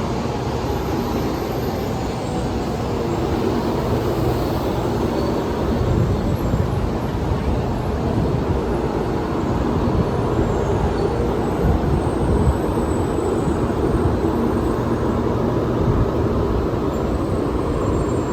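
Taiwan High Speed Rail train running along the station platform: a steady rumble of wheels and running gear with a rushing hiss, growing a little louder a few seconds in.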